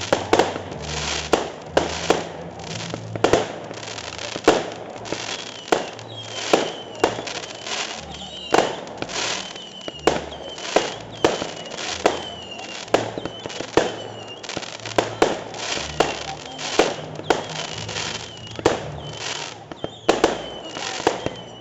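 Fireworks display: a continuous run of shell bursts, about one or two sharp bangs a second. A high wavering whistle sounds over the bangs through the middle stretch.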